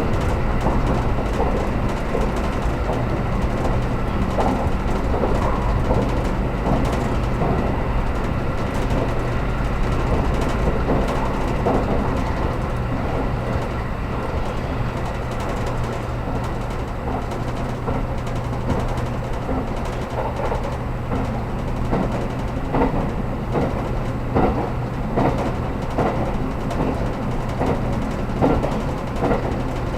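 Cabin noise inside a 783-series limited express electric train: a steady low rumble and hum, with scattered clicks and knocks from the wheels on the track that come more often in the last ten seconds.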